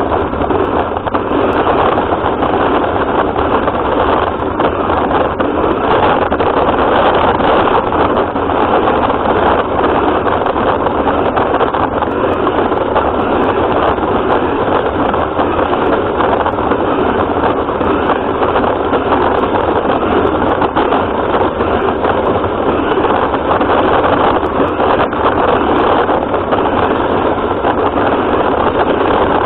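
Steady noise of a radio-controlled car driving, heard from its onboard camera, with no breaks or changes in level.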